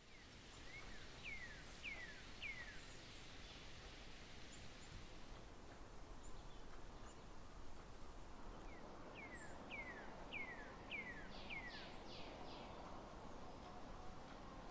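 A bird calling over steady outdoor background noise: a quick run of three sharply falling whistled notes, then after a pause a longer run of about six more.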